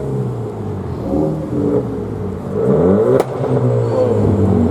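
Modified car's engine revving and accelerating, its pitch climbing and dropping several times. A single sharp crack comes about three seconds in.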